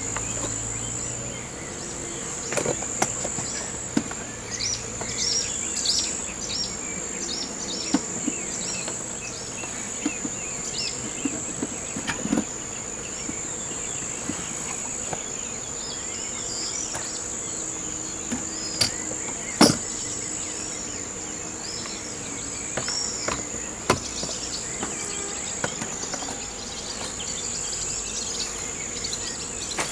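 Outdoor ambience after rain, dominated by a steady high insect trill, with clusters of short high chirps and a few sharp taps, the loudest about two-thirds of the way in.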